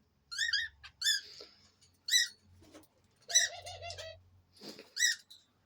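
Cockatiels chirping: about five bursts of short, high, rising-and-falling chirps, with a lower pulsing call running under one of them a little past the middle.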